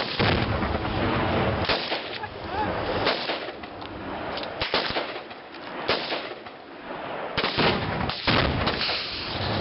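Several guns firing together in a ragged volley: many overlapping shots with echo, dense at first, thinning out in the middle, then bunching up again near the end.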